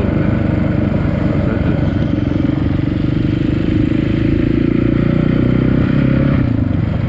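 Dirt bike engine running while being ridden, its pitch shifting a little in the middle.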